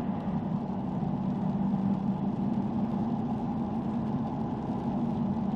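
Steady low hum of a running vehicle engine, constant throughout with no change in pitch.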